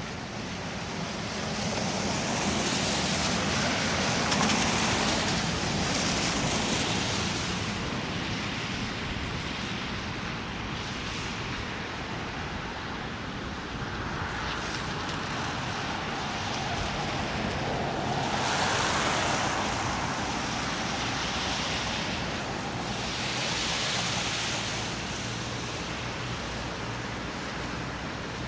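City traffic: vehicles passing on a wet, slushy road, their tyre hiss swelling and fading several times over a steady low rumble.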